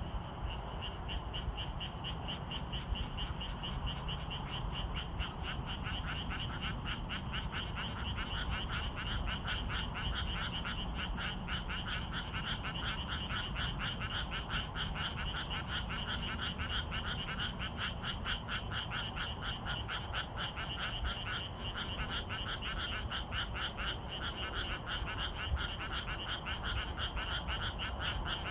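A chorus of frogs calling in rapid, densely overlapping pulses. It grows fuller about six to eight seconds in, over a steady low rumble.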